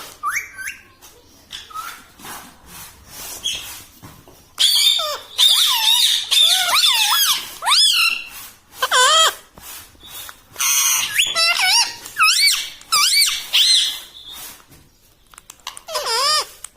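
Pet ring-necked parrot calling in shrill, wavering squawks and chatters that swoop up and down in pitch, coming in repeated groups from about four seconds in, after a few seconds of light scratching and clicking.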